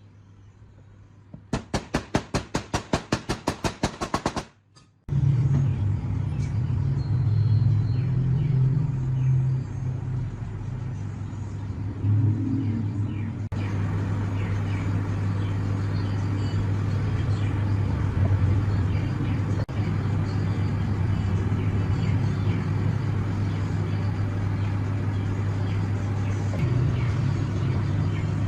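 Restored minibike's two-stroke engine: first a rapid run of even pulses, about six a second, then after a short break the engine running steadily with a few brief rises in revs.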